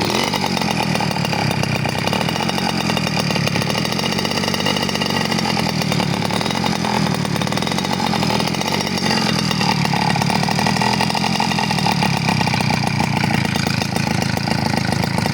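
Engine running through an exhaust with its baffle removed, a steady run of rapid, even firing pulses. The engine speed and level pick up slightly about nine seconds in.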